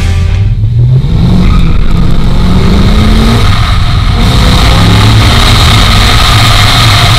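A 6.2-litre V8 car engine pulling hard at full throttle. Its note climbs steadily, drops at a gear change about three and a half seconds in, then climbs again.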